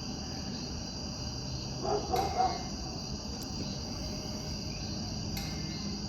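Steady chorus of crickets and other insects, a continuous high-pitched shrill, with a brief short call about two seconds in.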